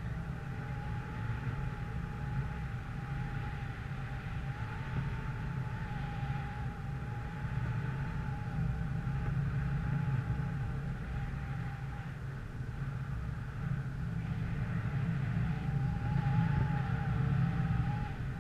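A motor vehicle running steadily, with a low drone and a faint whine that wavers slightly in pitch.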